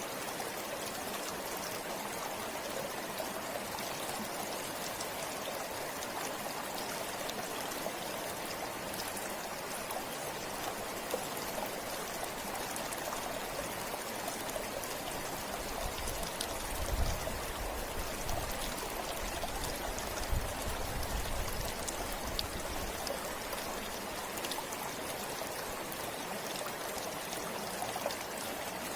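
A forest river flowing: a steady, continuous rush of water, with a few brief low rumbles a little past halfway.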